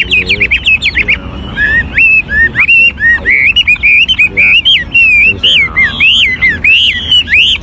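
Chinese hwamei (Garrulax canorus), an old caged decoy bird, singing loudly in an unbroken run of rapidly changing whistled phrases, slurring and trilling notes that swoop up and down in pitch. It is the kind of song keepers play to stir newly caught hwameis into singing.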